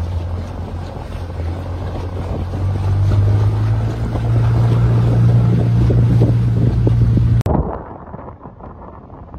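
A boat's motor runs under way, its engine note rising about three seconds in, with wind on the microphone. A little past seven seconds in, it cuts off abruptly to quieter wind and water noise.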